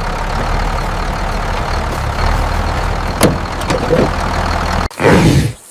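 Tractor engine idling steadily, then cutting off abruptly near the end, followed by a loud, short call.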